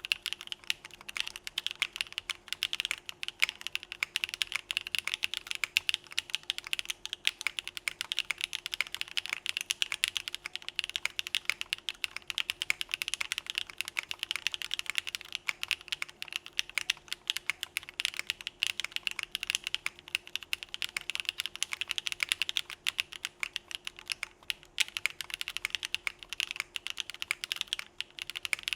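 Typing at normal speed on a Geonworks Frog mechanical keyboard fitted with Z1 linear switches (stem-lubed) in an aluminum plate, with CRP Desko keycaps: a steady, unbroken stream of keystrokes.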